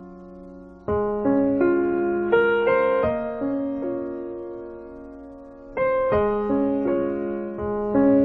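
Background music played on piano or electric piano: slow sustained chords, with a new phrase struck about a second in and another near six seconds.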